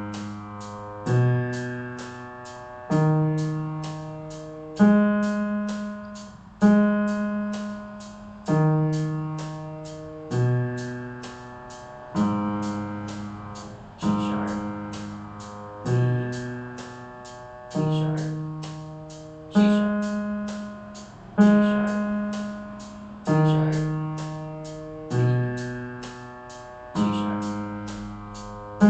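Piano playing a slow G-sharp minor arpeggio (G sharp, B, D sharp, G sharp), one note struck about every two seconds and left to ring, climbing and descending over and over as a practice tempo to play along with.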